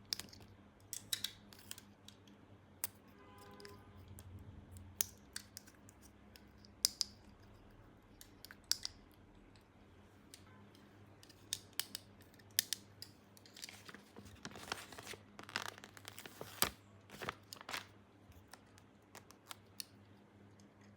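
Small plastic toy pieces and packaging handled up close: sharp clicks and taps at irregular intervals, with a few longer rustling scrapes about two-thirds of the way through.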